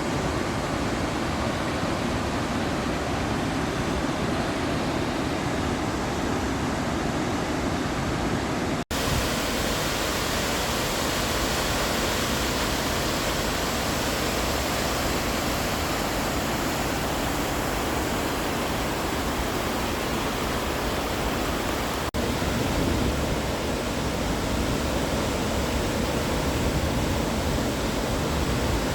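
Steady rushing roar of a waterfall on the McCloud River, broken twice by a momentary cut in the sound.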